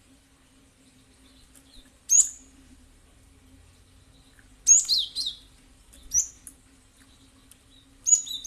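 Cinereous tit (gelatik batu) calling: short, sharp, high notes in brief clusters, four bursts with pauses between. A faint steady hum runs underneath.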